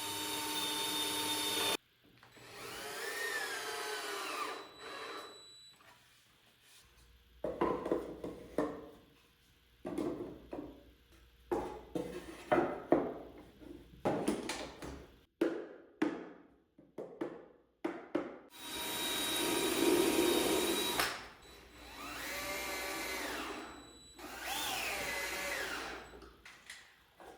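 Cordless drill/driver running in several short bursts, its motor whine rising and falling as it drives fasteners during drawer assembly. In the middle comes a string of sharp knocks, a dozen or so over about ten seconds.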